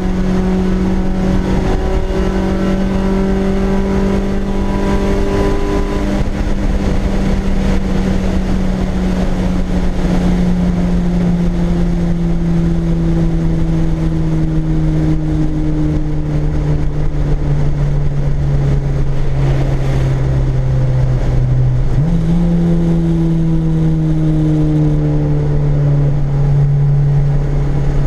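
Honda K24 inline-four in a Civic EG, heard from inside the cabin while driving: a steady engine note that slowly drops in pitch, jumps sharply back up about 22 seconds in, then drops slowly again, over road and tyre noise.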